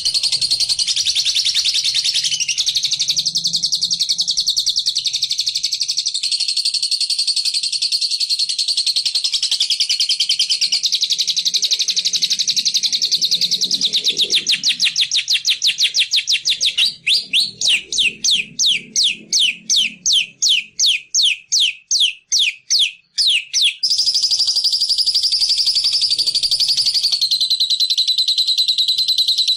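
Small songbird's lure song: a high, very fast continuous trill, which in the middle changes to a run of separate sharp notes, each sweeping downward, about three a second, before the trill resumes.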